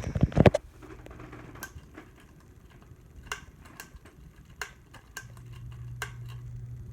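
Harbor Breeze Ocracoke ceiling fan: a quick burst of loud clicks at the start, then sparse ticking. A steady low motor hum comes in about five seconds in.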